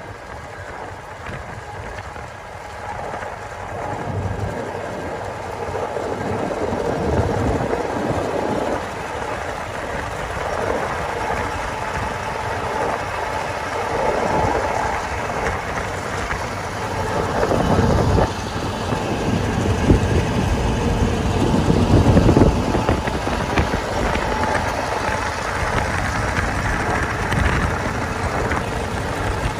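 Rumble of a car driving at speed alongside a moving passenger train, with road and wind noise mixed with the running diesel locomotives and their wheels on the rails. The rumble swells in gusts around the middle.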